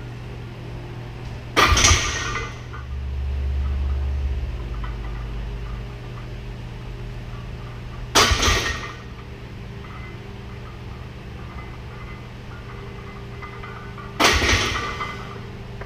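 Loaded barbell with iron plates clanging three times against the steel power rack, each strike followed by a short metallic ring, over a steady low hum.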